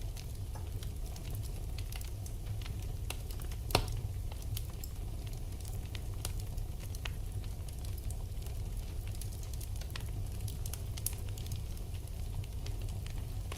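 Wood fire burning in a fireplace: a steady low rumble with scattered crackles and pops, one pop louder than the rest about four seconds in.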